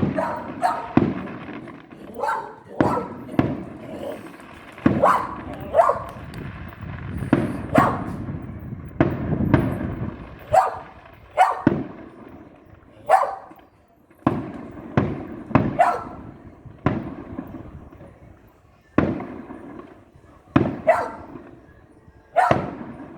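Fireworks going off: a long run of sharp bangs at irregular intervals, about one or two a second, each fading quickly.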